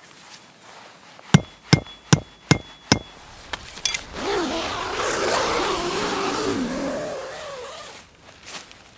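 Five quick hammer blows on metal, about two and a half a second, each with a short metallic ring. About a second later comes a longer rough, wavering sound lasting some three seconds.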